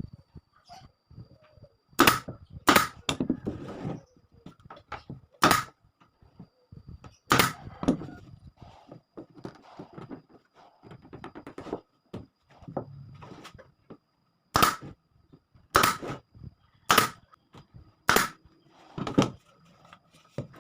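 Sharp wooden knocks and clatter of pallet-wood pieces being struck or set down in a workshop: about a dozen irregular hits, with a first cluster about two seconds in and a run of evenly spaced knocks from about fifteen to nineteen seconds.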